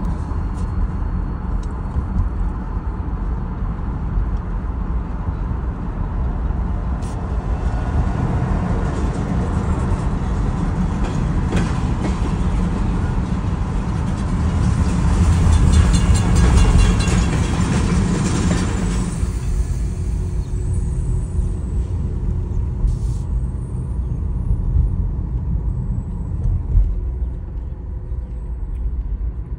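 Freight train passing, heard from inside a car: a steady low rumble that swells into a loud clatter of steel wheels on rail about fifteen seconds in, lasting some four seconds before dropping back to a rumble.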